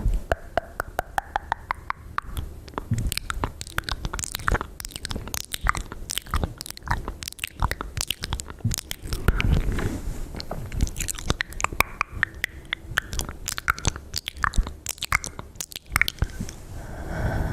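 Close-up ASMR mouth sounds: quick wet clicks and smacks of the lips and tongue, coming thick and irregular, several a second.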